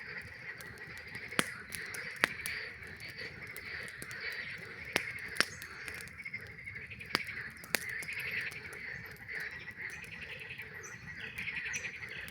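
A chorus of frogs trilling steadily, with sharp crackles and pops from a burning campfire, about half a dozen standing out.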